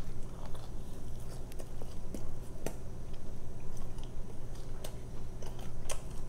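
Close-miked chewing and biting of Domino's thin pizza crust, with small crunchy clicks scattered throughout.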